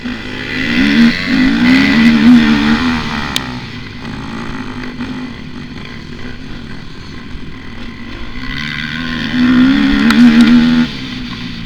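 Motocross dirt bike engine revving hard in two surges a few seconds long, pitch wavering up and down, with quieter running in between. The second surge cuts off sharply near the end.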